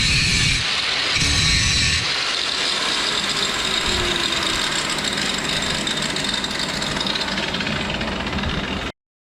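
Flux-core wire welding arc crackling and sizzling steadily on steel, then cutting off abruptly near the end.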